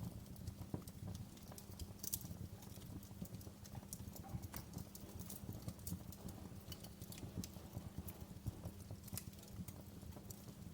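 Wood fire in a fireplace crackling: irregular sharp pops of varying strength over a steady low rumble.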